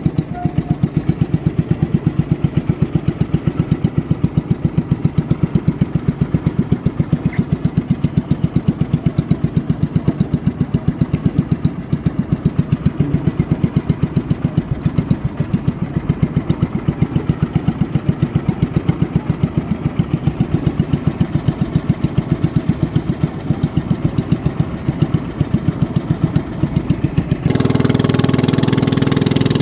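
A boat engine running with a steady, even pulse. Near the end it changes abruptly to a louder, smoother engine sound.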